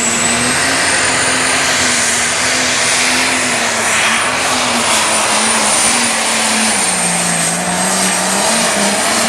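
Turbocharged diesel super stock pulling tractor running at full power under the load of the sled, a high steady turbo whistle over the engine. The engine's pitch sags for about a second near the end, then comes back up.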